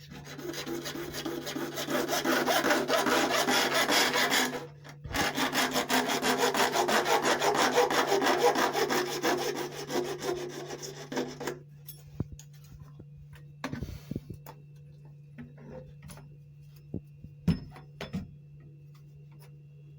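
Hand sawing through a plastic PVC drain pipe to cut off an over-long piece, in two spells of quick back-and-forth strokes with a short pause between them. After the cut, a few light knocks as the pipe is handled, over a steady low hum.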